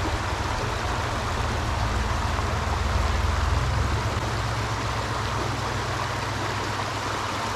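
Steady rushing of shallow water over a stream riffle, with a low rumble that eases a little after about halfway.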